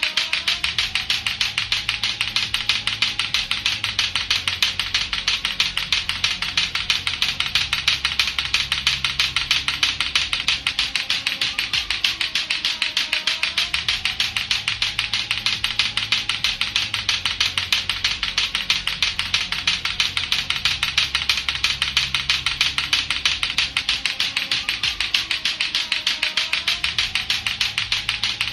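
Latto-latto clacker toy, two hard plastic balls on a string knocking together in a rapid, steady run of sharp clacks, over a faint low hum.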